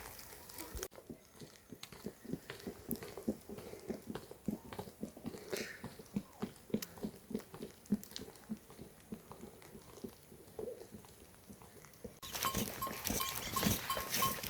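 Livestock munching fodder: soft, irregular chewing and crunching, two or three bites a second. About twelve seconds in it cuts to a louder steady hiss with a short high note repeating quickly.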